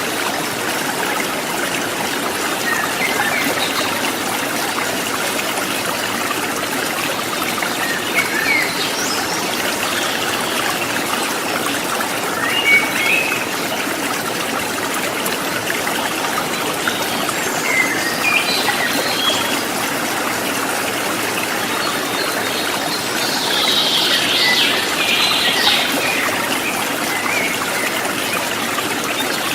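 River water flowing and splashing over rocks, a steady rushing trickle. Short bird chirps come and go over it, with a busier patch of chirping about three-quarters of the way through.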